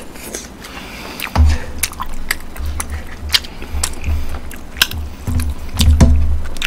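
Close-miked eating: chewing with wet mouth clicks and smacks, and deep irregular thumps, over a mouthful of spicy rice cakes (tteokbokki). A wooden spoon clacks and scrapes in the pan of tteokbokki in the second half.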